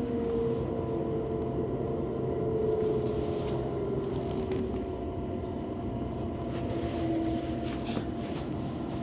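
Inside a high-speed train under way: a steady low rumble with a faint whine that slowly falls in pitch.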